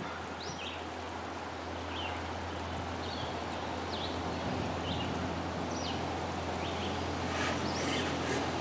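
Woodland ambience: short, high bird chirps about once a second over a steady low hum and hiss, with a faint rustle near the end.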